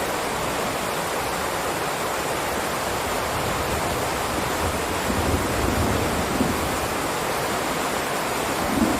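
Steady rain falling, an even, dense hiss without a break, with a couple of brief louder spots in the second half.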